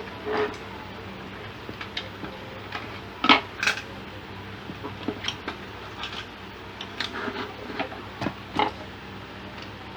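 Scattered light clicks and clinks of tools and small parts being handled at an electronics repair bench, over a steady low hum.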